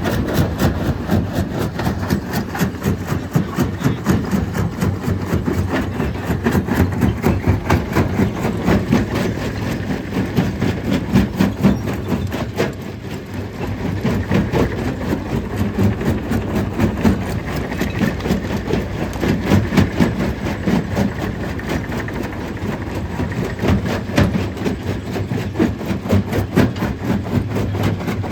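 Stone crushing machine running, a dense, continuous clatter of rapid knocks over a low drone as it breaks rock. It eases briefly about halfway through.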